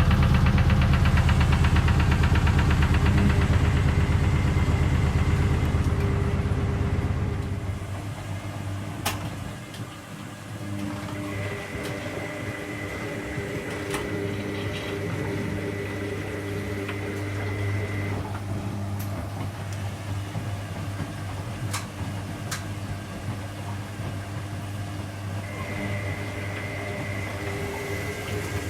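Front-loading washing machine spinning its drum loud and fast with a low rumble, which dies down about eight seconds in; afterwards the machine runs on with a quieter hum, a thin whine that comes and goes, and a few sharp clicks.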